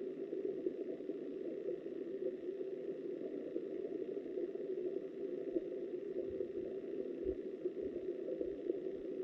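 Muffled, steady rush of river water heard through an underwater camera's housing, with a few faint low thuds in the last few seconds.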